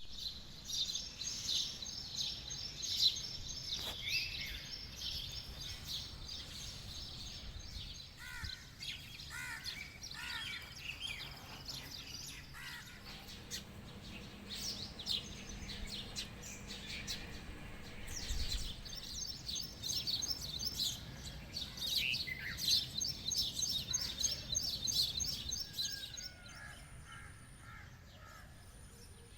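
Several birds chirping and calling in quick runs of high notes, with some lower sweeping calls, over a steady low background noise. The chirping dies away near the end.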